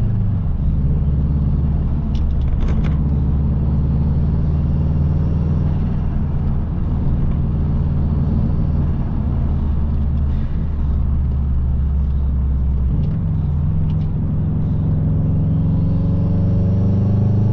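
Turbocharged EJ20 flat-four engine of a Subaru Impreza WRX under way, a steady low drone. Its pitch shifts about thirteen seconds in and rises again near the end as the revs change.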